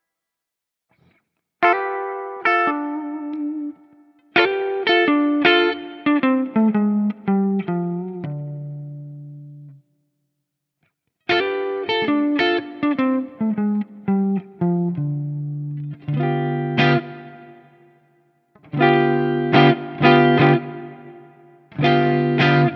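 Electric guitar through a clean-channel Mesa/Boogie Mark-style amp emulation on a digital preamp/modeler, playing three phrases of descending single-note lines that end on ringing notes and chords, with short pauses between them.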